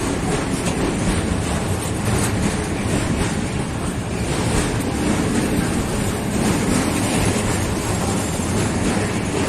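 Train rolling past, a steady rumble of wheels on the rails with faint irregular knocks.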